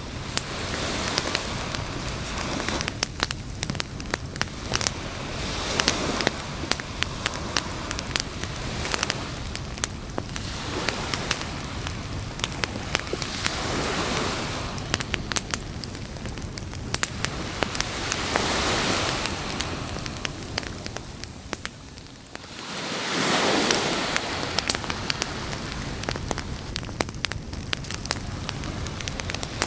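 Beach campfire crackling, with many sharp pops and snaps, over a hiss that swells and ebbs every four or five seconds like waves washing in; the strongest swell comes just after a short lull near the end.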